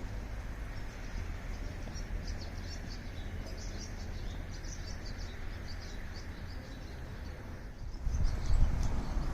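Small birds chirping over a steady low rumble of outdoor background noise, which grows louder about eight seconds in.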